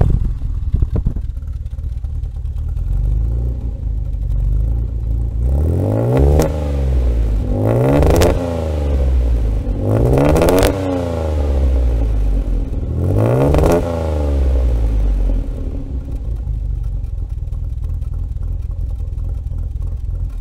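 Austin-Healey 3000's straight-six engine with twin SU carburettors, heard through its exhaust, starts up and idles, is revved four times with the pitch rising and falling back each time, then settles to a steady idle. It runs a little raspy and still a little stumbly after its sooty, over-rich plugs were cleaned and regapped, which the owner expects to clear up once the cylinders warm.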